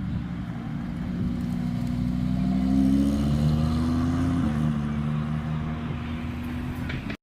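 A car engine pulling under throttle: its pitch and loudness climb over the first three seconds, the pitch drops suddenly about four and a half seconds in, and then it runs steadily.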